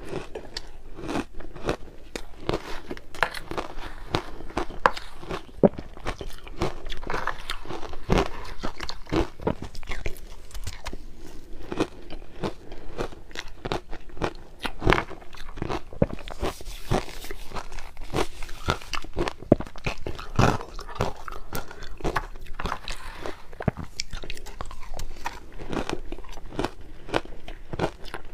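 Crushed ice being bitten and chewed close to the microphone: rapid, irregular crunching that runs on without a break.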